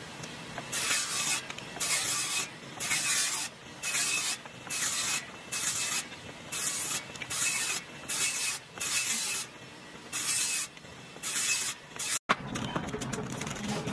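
A series of short hissing strokes, about one a second, each lasting around half a second. A cut just after twelve seconds in leads to a different, steadier texture.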